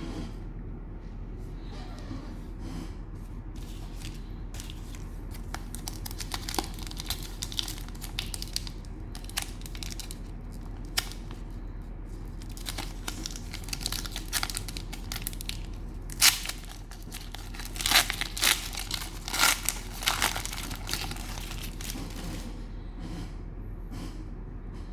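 Cellophane wrapper of a trading-card cello pack crinkling and being torn open, an irregular run of crackles that is loudest a little after halfway through, over a steady low hum.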